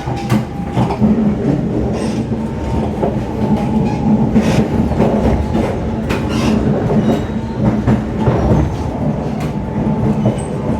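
Siemens C651 metro train running along the track: a steady rumble with a low hum, and irregular sharp clicks of the wheels passing over the rails.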